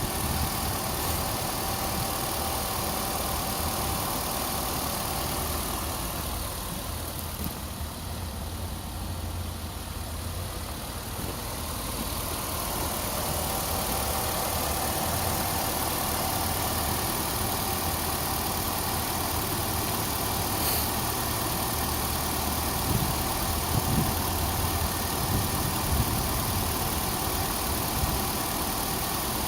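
2008 Nissan Altima's 2.5-litre four-cylinder engine idling steadily, with a few short taps about three quarters of the way through.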